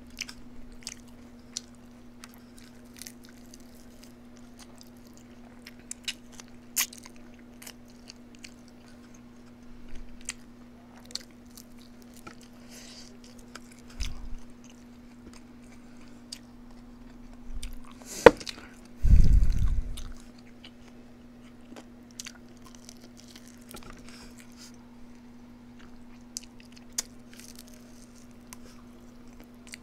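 Close-miked eating: chewing and crunching with scattered sharp clicks, over a steady low hum. A loud knock about 18 seconds in is followed by a brief low rumble.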